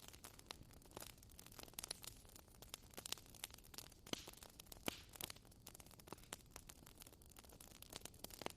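Wood bonfire crackling: irregular sharp pops and snaps, a few louder than the rest, over a faint steady hiss.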